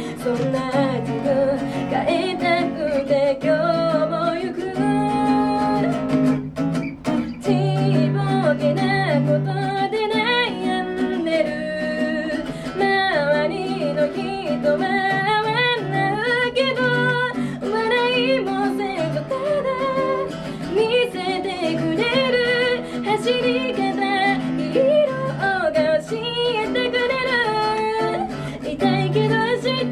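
A woman singing a pop song while strumming chords on an acoustic guitar, played live and unamplified.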